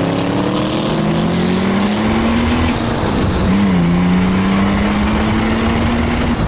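1967 Jaguar E-Type's straight-six engine under way, rising in pitch as the car gathers speed, dipping briefly about three and a half seconds in, then holding steady at a cruise. Wind rushes over the microphone.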